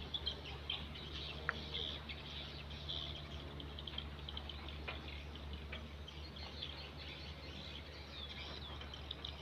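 Birds chirping, many short high notes scattered throughout, over a steady low hum, with one sharp click about a second and a half in.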